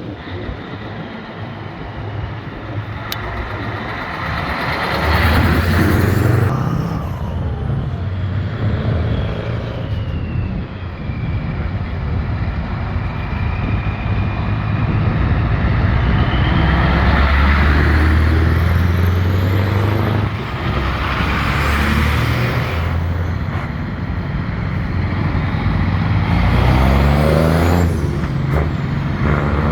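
Vintage trucks driving past one after another, their diesel engines swelling as each one nears and falling in pitch as it goes by.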